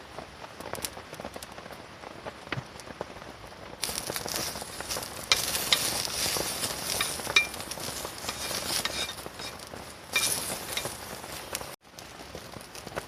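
Food sizzling and frying in a pan over a campfire. The sizzle starts suddenly about four seconds in, with sharp pops through it, and cuts off abruptly near the end. Before it there is a softer patter with light clicks.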